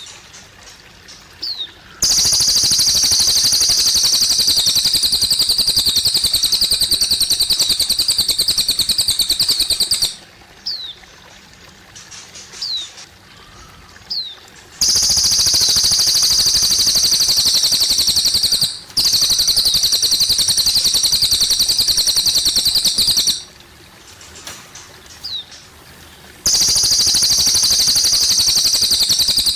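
A cililin songbird singing long, rapid, high-pitched trills, each lasting about four to eight seconds. Between them are short pauses holding brief down-slurred chirps. Water trickles faintly underneath.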